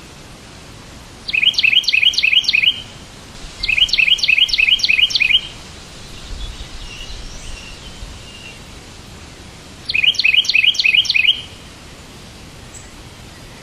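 A songbird sings three short phrases of rapid, evenly repeated chirps, each phrase a second or so long, with fainter twittering between the second and third. A steady background hiss runs underneath.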